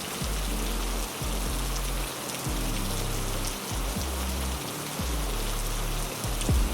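Heavy rain as a steady hiss, with low sustained music tones underneath that shift about once a second. A brief louder low sound comes just before the end.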